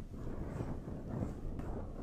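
Close-miked ASMR trigger sounds: a steady, dense crackle of small soft contacts against the microphone or an object.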